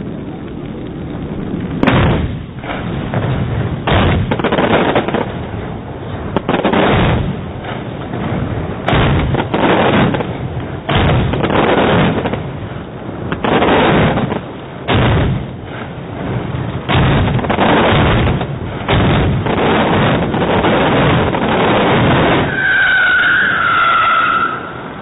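Daylight fireworks exploding in rapid, overlapping volleys: repeated heavy bangs and crackling blasts with short lulls between them, stopping shortly before the end.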